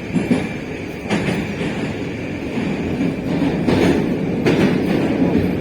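Moscow metro train running between stations, heard from inside the carriage: a steady rumble of wheels on rails, with sharp clicks of the wheels over rail joints about a second in and twice near the end.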